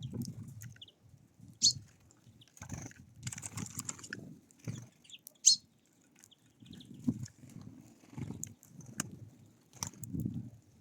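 Wild birds at a feeder: scattered sharp clicks and short high chirps, over repeated low rumbling bursts about once a second.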